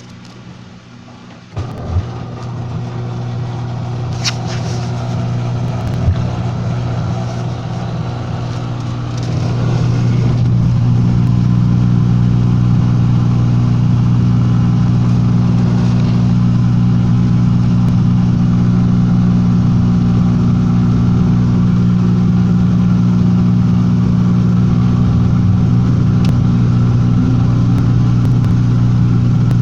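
Washing machine starting up. The motor comes on suddenly, builds over several seconds, and from about ten seconds in runs as a loud, steady hum.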